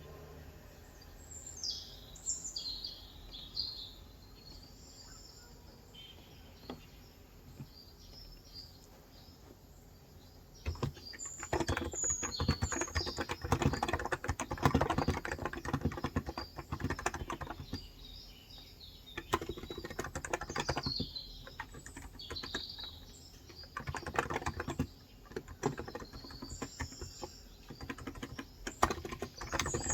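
Birds chirping in short high calls, then from about ten seconds in, fast typing on a Cox Endeavor electrostatic capacitive keyboard with 35 g switches, in runs of keystrokes with short pauses, while the birds keep chirping.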